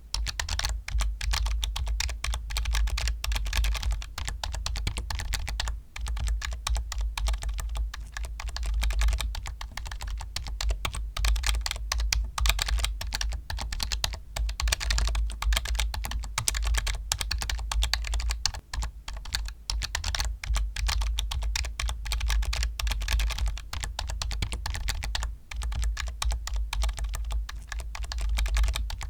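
Computer keyboard being typed on fast and without a break: a dense run of clicking keystrokes over a steady low hum.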